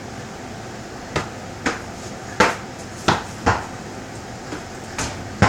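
A volleyball being hit and bouncing: about seven sharp smacks at irregular intervals, starting about a second in.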